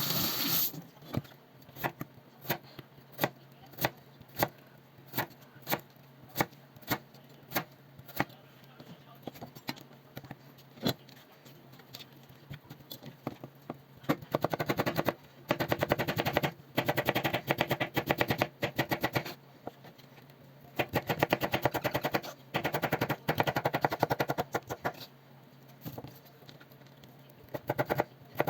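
Kitchen knife cutting vegetables on a cutting board: single, separate chops about every half second at first, then from about halfway fast, rapid chopping in runs of one to three seconds with short pauses.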